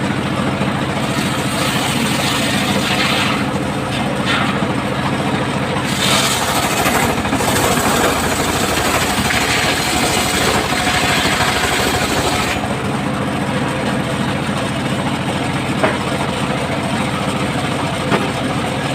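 Circular sawmill blade running with a steady drive hum; from about a second in the blade cuts through a log, adding a harsh hiss that stops abruptly about twelve seconds in, after which the saw runs on unloaded.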